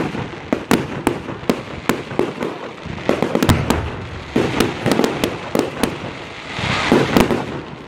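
Fireworks going off in a rapid, irregular string of bangs and cracks, several a second, with a short hissing rush near the end.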